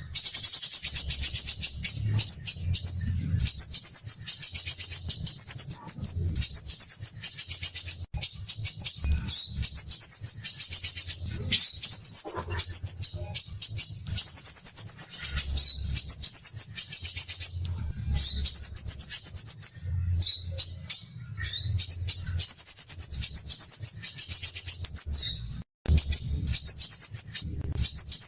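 Crimson sunbird (sepah raja) singing in coarse, tightly packed high trills. Its phrases of a second or two follow one another with only brief breaks.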